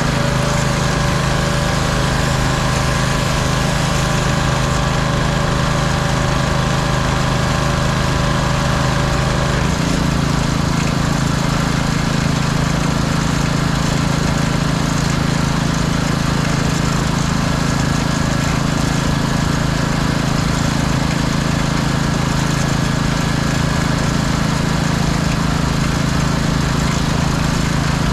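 Pressure washer's engine running steadily under load, its tone shifting slightly about ten seconds in.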